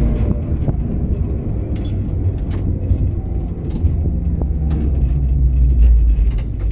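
Historic tram running along the track: a steady low rumble of wheels on rails with scattered clicks and knocks. A deeper hum strengthens in the second half.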